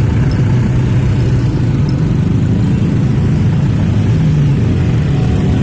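Truck engine running steadily, a constant low engine sound with no change in speed.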